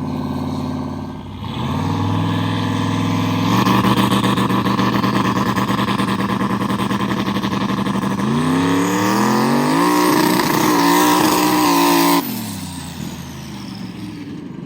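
Turbocharged mega truck engine running at steady revs, then climbing in pitch as the revs rise and holding high for a few seconds before the throttle is suddenly shut off, about three seconds before the end. It is a high-boost pull on the truck.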